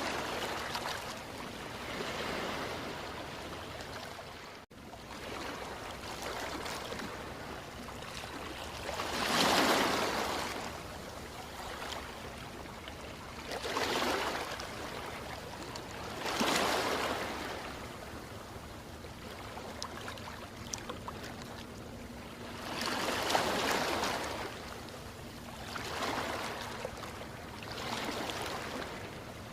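Ocean waves breaking and washing in, each wave a surge of rushing noise that swells and fades every few seconds, the biggest about ten and twenty-four seconds in. The sound drops out for an instant about five seconds in.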